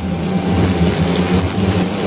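Asian giant hornets buzzing in flight at the nest, a steady low drone that wavers slightly in pitch.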